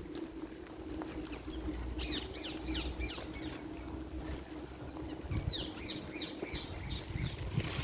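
A bird calling outdoors: two short runs of quick, high chirps, one about two seconds in and another about five and a half seconds in, over a low steady background hum.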